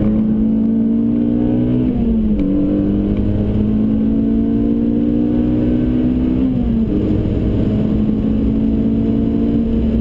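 Renault Clio RS's 2.0-litre four-cylinder engine at full throttle, heard from inside the cabin; it runs with a sports air filter, a 200-cell sports catalyst and a remap. The pitch climbs toward the redline, drops at an upshift about two seconds in, climbs again and drops at a second upshift around seven seconds, then holds fairly steady.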